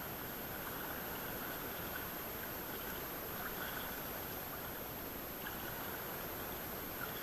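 Steady wash of sea water around a kayak, with faint small splashes and drips.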